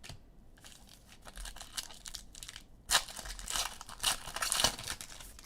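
Trading cards and their plastic packaging being handled, crinkling and rustling in a string of short bursts, loudest about three seconds in and again a second or so later.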